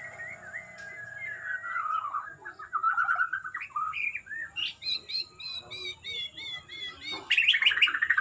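Murai songbird singing a varied song: gliding whistled phrases, then a run of quick repeated notes, ending in a louder, harsher phrase near the end. A faint steady high whine sits underneath.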